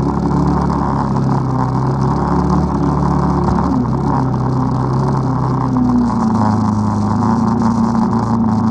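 ATV engine running under way, its pitch shifting with throttle changes about four and six seconds in.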